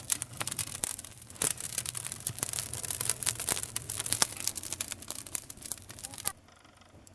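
Campfire burning, wood crackling steadily with many sharp pops. The crackling cuts off suddenly about six seconds in.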